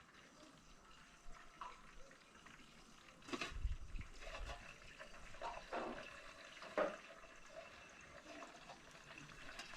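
Hands being washed in running or poured water, with splashing that starts about three seconds in and a few knocks among it.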